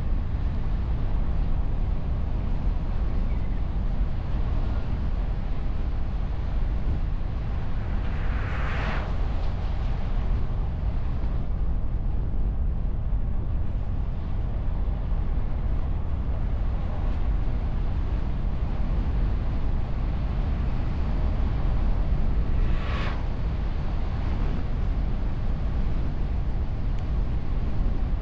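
Road and wind noise of a car on the move, picked up by a camera on the bonnet behind a wind muffler: a steady low rumble. Two short whooshes stand out, about a third of the way in and again at about three-quarters.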